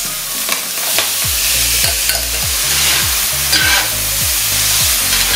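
Tomato-and-onion bruschetta mix sizzling as it hits a hot cast-iron skillet of seared shrimp and is stirred with a spoon, a steady frying hiss with the odd scrape and click against the pan. Background music with a low, steady beat comes in about a second in.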